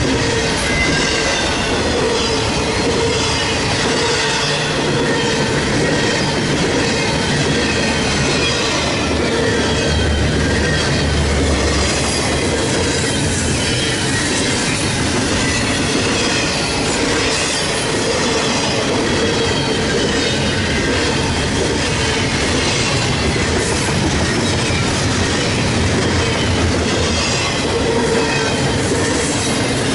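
Norfolk Southern freight train rolling past, its steel wheels squealing in thin high-pitched tones that slide in pitch over a steady rolling rumble.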